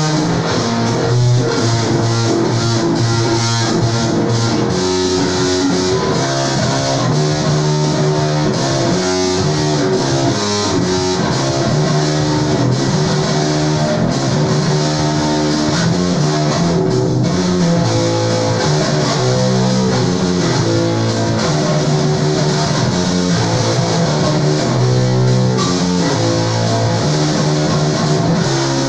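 Rock music played on electric guitar and bass guitar, with a steady run of changing bass notes.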